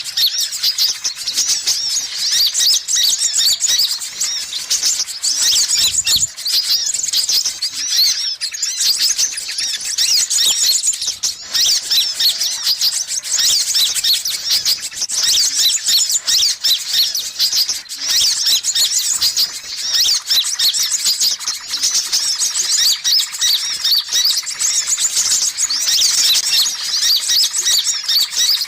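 Sunbirds calling: a dense, unbroken stream of rapid high chirps and trills, a bird-lure recording played loud.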